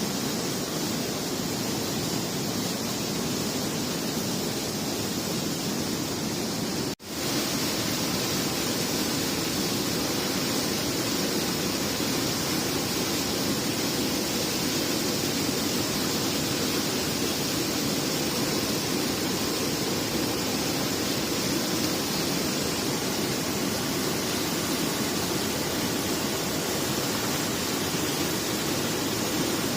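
Steady rushing noise with no distinct events, broken by a sudden, brief dropout about seven seconds in.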